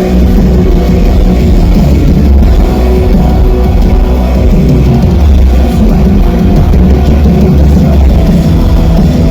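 Loud live darksynth music from a band: electronic synths over drums and guitar, steady and bass-heavy.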